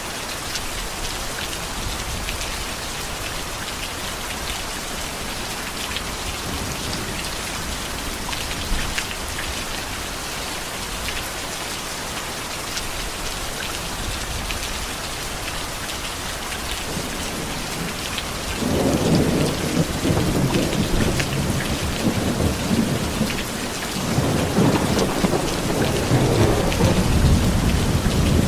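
Heavy rain falling steadily, with fine drop patter. About two-thirds of the way in, thunder rolls in with a long low rumble, eases briefly, then rumbles again near the end.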